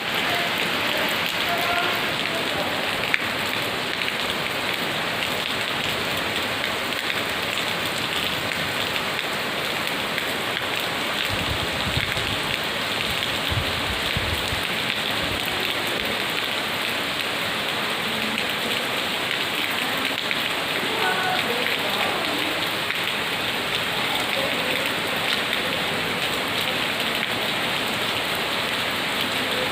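Heavy monsoon rain falling steadily on surfaces, an even, constant downpour, with a brief low rumble about halfway through.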